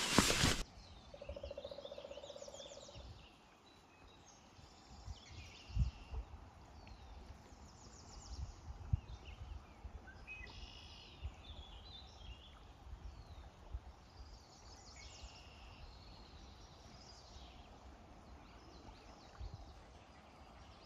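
Songbirds singing and calling on and off in the morning outdoors, with a short low pulsed trill about a second in that lasts about two seconds. Faint low thuds sound here and there.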